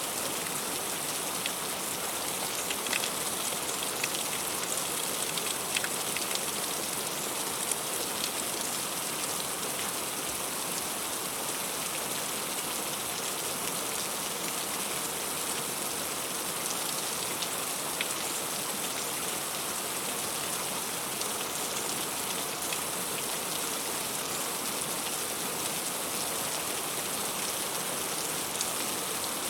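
Heavy rain falling steadily on fruit, an even hiss with scattered sharper drop ticks close by.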